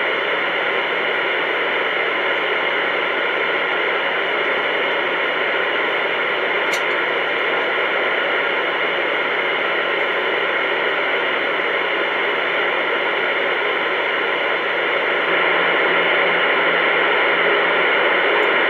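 Steady, loud static hiss from a CB radio's speaker, with no voice in it. It comes on suddenly, runs evenly and gets a little louder about fifteen seconds in.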